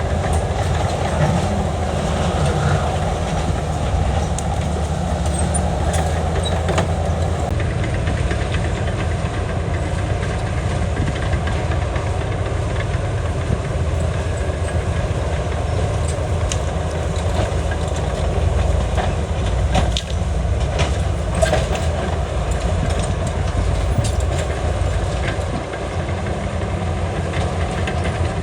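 Diesel engine of heavy earthmoving machinery running steadily under load, with scattered metallic clanks and knocks.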